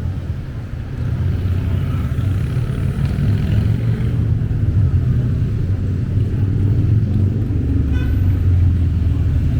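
Motor traffic rumbling steadily: the low, continuous sound of car and motorbike engines on a city street.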